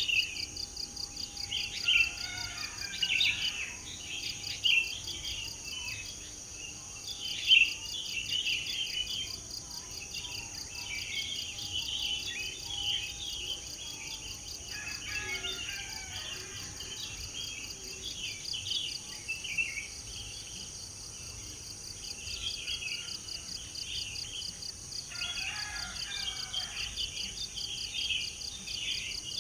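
Several birds chirping and singing in short phrases over a steady high trill of crickets or other insects, with a few louder sharp calls in the first eight seconds.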